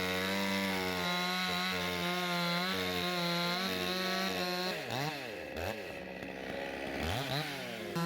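Chainsaw engine running steadily at high revs. Twice, about five and six seconds in, it briefly drops off and revs back up.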